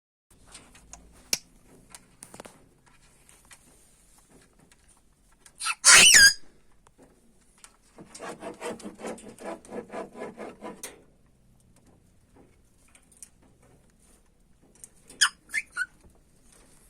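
African grey parrot calling: a loud, wavering high whistle about six seconds in, then a quick run of short repeated sounds lasting about three seconds, and a few short squeaks near the end, with faint clicks in between.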